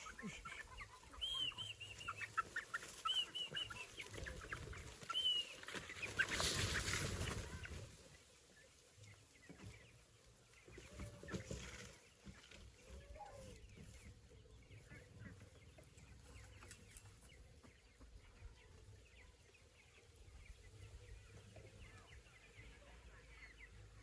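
Chickens clucking faintly, with short calls mostly in the first several seconds. A brief louder rushing noise comes about six seconds in, and after that only faint scattered sounds.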